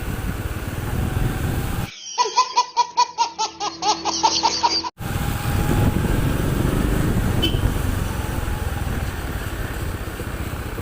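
Steady rumble of a motorcycle ride with wind on the microphone, broken about two seconds in by a laughing sound effect edited in: a quick run of pitched 'ha' pulses, falling in pitch, that lasts about three seconds before the riding noise returns.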